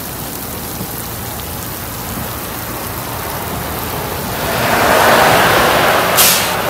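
Heavy rain falling on a flooded road, a steady hiss of rain on standing water. It swells into a louder rush about four and a half seconds in, with a brief sharp hiss near the end.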